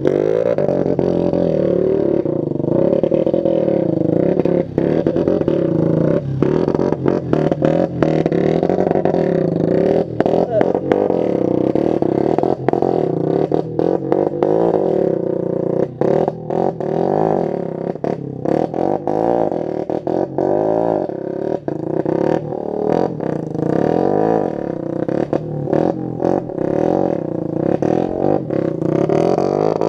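Motorcycle engine with a loud exhaust revving up and down, its pitch rising and falling, with many brief drops where the throttle is chopped.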